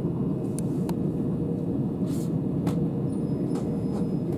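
Steady low rumble of a Southeastern Class 375 Electrostar electric multiple unit running at speed, heard from inside the carriage, with a few faint clicks scattered through it.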